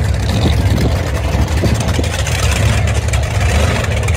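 Monster truck engine running steadily at low revs, a loud, deep, even engine sound with no change in speed.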